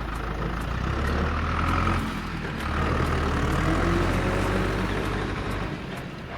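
Heavy vehicle engine running with a low rumble that swells, dips briefly, swells again and eases off near the end.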